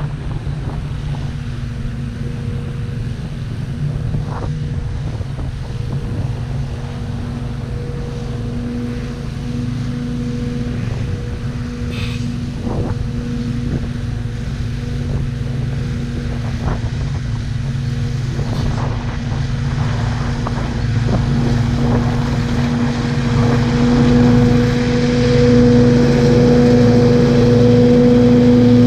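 An engine running steadily with a low rumble and a held hum, slowly growing louder toward the end, with a few light knocks midway.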